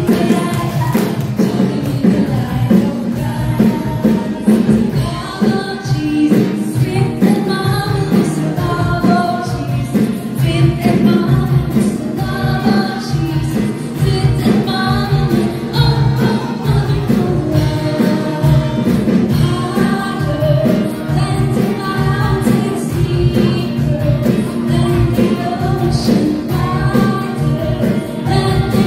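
A song with a group singing together over a steady beat.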